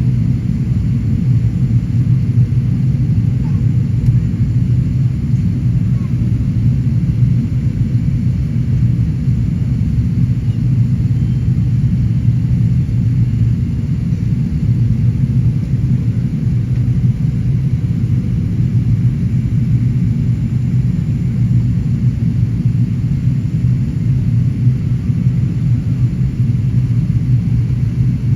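Steady low rumble of a Qantas Airbus A380 airliner, unchanging in level throughout.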